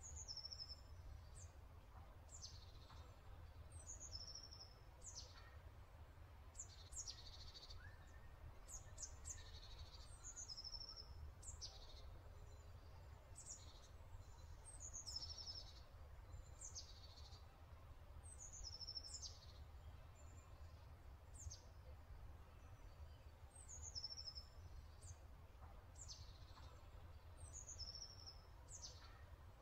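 Faint songbird chirping: short high notes that fall in pitch, repeated every second or two, over a low steady hum.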